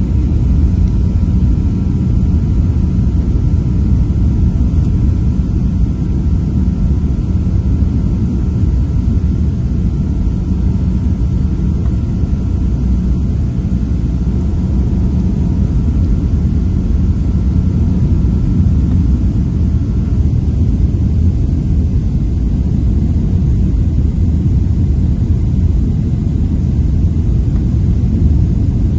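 Boeing 737-700 heard from inside the passenger cabin during the landing: a steady low rumble of engine and airflow noise, with faint steady whine tones that drop out about two-thirds of the way through.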